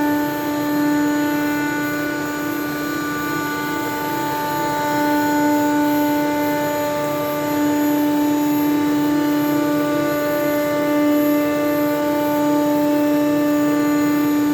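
ShopSabre CNC router running with a steady, high spindle whine as its bit cuts a sheet of King StarBoard HDPE plastic.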